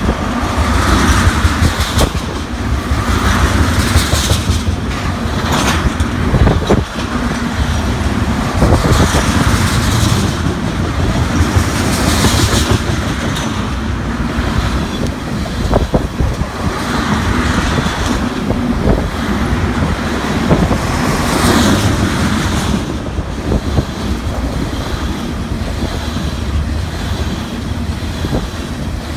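Freight train of ethanol tank cars rolling past at close range: a steady rumble of steel wheels on rail with clicking and clatter over the rail joints, swelling and easing every few seconds.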